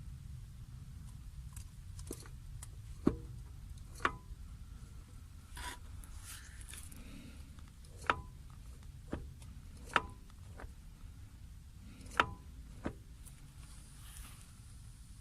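A series of sharp clinks and knocks, about seven, spread over the span, some leaving a brief ring, over a low steady rumble.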